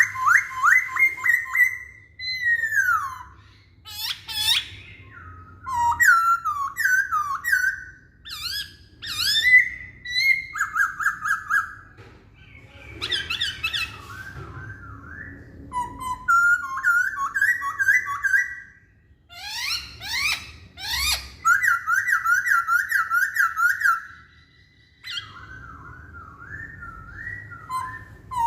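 A poksay Hongkong laughingthrush singing loudly. It gives a long, varied song of fast repeated whistled notes and trills in phrases a few seconds long, with short breaks between them.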